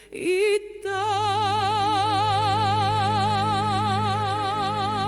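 A song, in which a singer holds one long note with a steady, even vibrato over a sustained low bass note. There is a short break and a quick pitch slide in the first second before the note settles.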